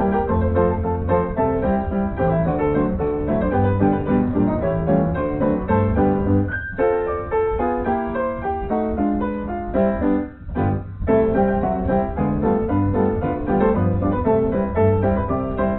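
Background piano music, fast runs of notes with a couple of brief pauses about six and ten seconds in.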